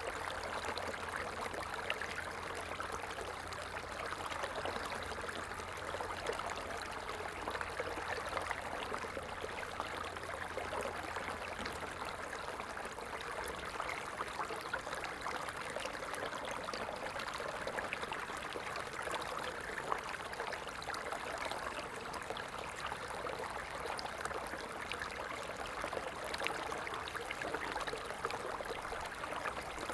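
Stream water flowing steadily over rocks, a continuous babbling rush.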